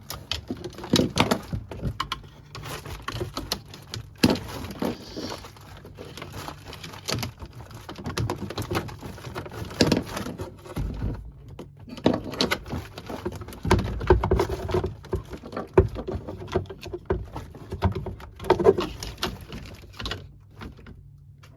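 Plastic RV water filter housing being worked loose with a filter wrench: irregular clicks, knocks and scrapes of plastic and the tool being handled.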